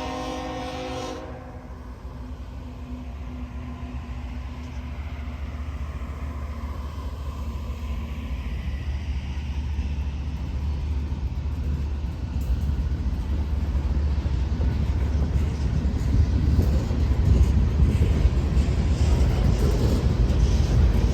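Diesel locomotive horn sounding and cutting off about a second in. It is followed by the low rumble of a freight train that grows steadily louder as it approaches.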